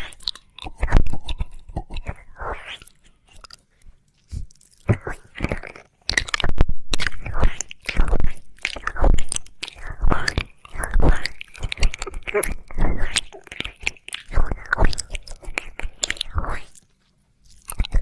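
Wet mouth sounds of ear licking: irregular runs of licks, smacks and clicks, pausing briefly a few times.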